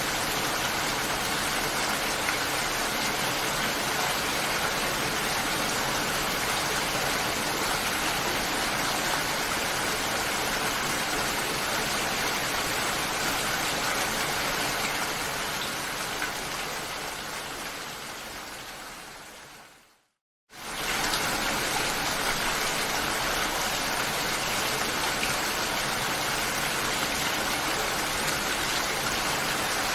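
Steady, even rain. It fades out over several seconds to a brief moment of silence about twenty seconds in, then starts again suddenly at full level, like a loop or edit point in the recording.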